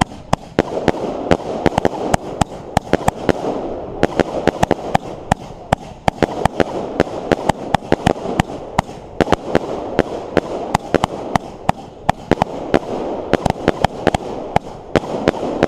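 Fireworks going off: a dense, irregular run of sharp bangs and crackling pops, several a second, over a continuous crackling haze.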